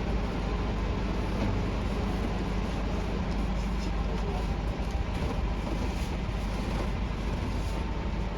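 Pressure washer running steadily: a low machine hum under a constant hiss of spray.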